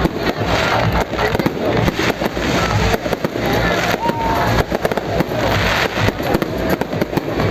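Fireworks display going off in a dense, continuous barrage of bangs and crackles, many per second.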